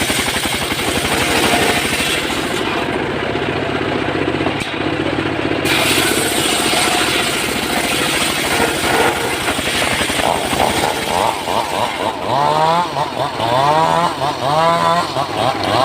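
Two-stroke chainsaw running under load while cutting wood. From about ten seconds in its engine note rises and falls over and over, about twice a second, as the throttle is blipped.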